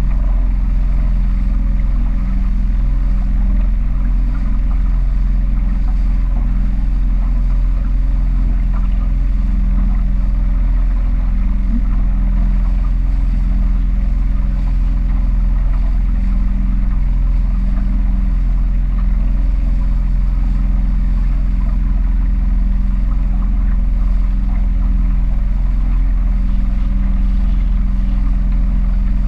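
Small powerboat's engine running steadily, a loud low drone with even engine tones that hold the same pitch throughout.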